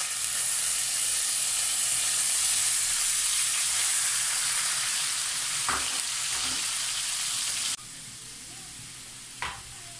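Raw chicken gizzards sizzling in hot oil in a wok as they are poured in. The sizzle is loud and steady, then drops suddenly to a quieter hiss about three-quarters of the way through, with a couple of short knocks.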